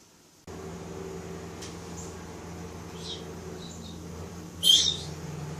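African grey parrot giving a few soft high chirps, then one short loud squawk near the end, over a steady mechanical hum that starts suddenly about half a second in.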